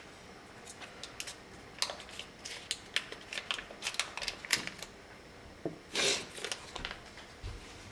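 Kitchen handling sounds while making a cheesecake: a quick, irregular run of light clicks and taps, then a single brief, louder scrape or rustle about six seconds in.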